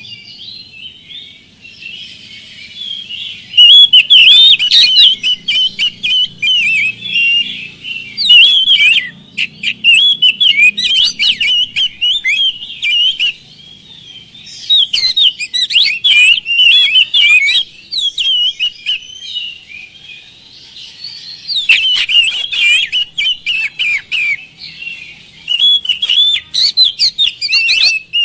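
Oriental magpie-robin (kacer) singing a full song: loud phrases a few seconds long of rapid, varied whistles and chirps, with softer warbling in between.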